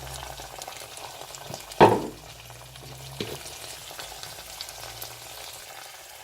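Sauce of ginger-garlic paste, ketchup and soy sauce sizzling in a hot pan as it is stirred, with a loud sharp knock just under two seconds in and a lighter one about a second later.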